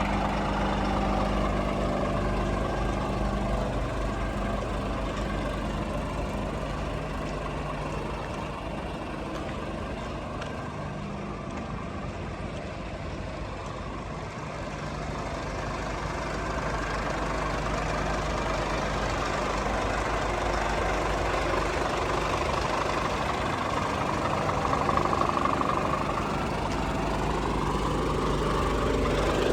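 Scania P450 truck's diesel engine running steadily, with a low hum. It gets a little quieter for a few seconds midway, then louder again.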